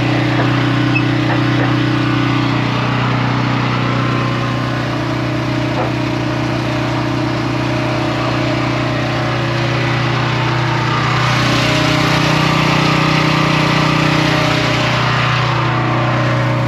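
Heavy diesel engine running steadily, growing busier and louder in its upper range from about two-thirds of the way through, then settling.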